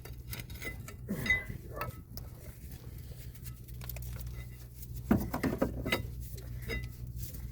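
Irregular metal clinks and knocks of a wrench and a Subaru Impreza's rear brake caliper bracket being worked and rocked against a rust-seized bracket bolt.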